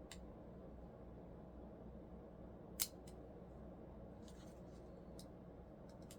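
A few light, sharp clicks and ticks of small parts or hand tools being handled, the loudest about three seconds in, over a faint steady hum.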